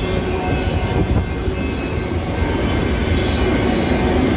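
Empty autorack freight cars rolling past on the track: a steady, continuous noise of steel wheels running on the rails.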